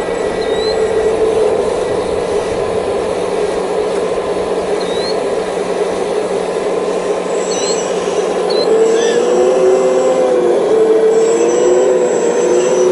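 Radio-controlled hydraulic excavator running, its hydraulic pump giving a steady whine. From about nine seconds in, the pitch wavers up and down as the machine digs. Short high chirps come and go over it.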